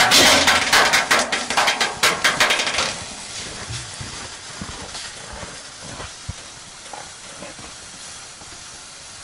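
Fish frying in a hot pan. It spatters and crackles loudly for about three seconds, then settles into a steady, quieter sizzle.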